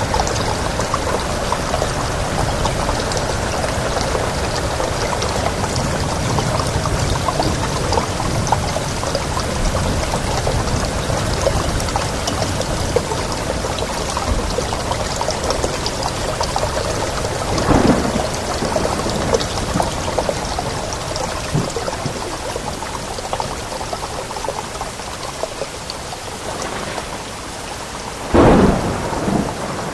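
Steady rain falling, a dense even hiss, with two brief louder bursts, one a little past halfway and one near the end.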